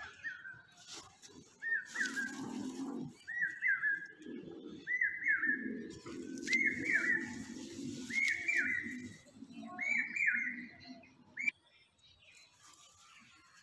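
A bird calling: a series of about seven short whistled calls, each a quick rise and fall, repeating every second and a half or so and getting a little higher and louder as they go. A lower, rough sound runs underneath, and both cut off suddenly near the end.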